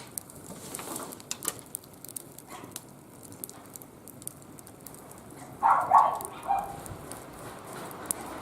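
Wood fire crackling in a barbecue grill, with scattered sharp pops. A little past halfway, two short animal calls come in quick succession, louder than the fire.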